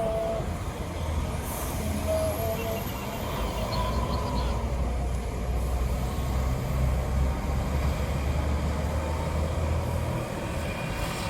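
Heavy truck's diesel engine running at low speed with a steady low drone.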